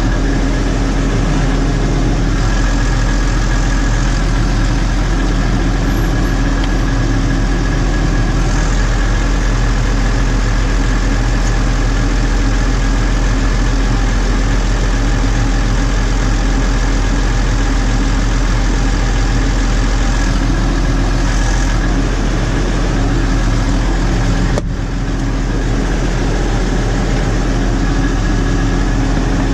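New Holland 6080 tractor's diesel engine idling steadily, with a brief dip in level about three-quarters of the way through.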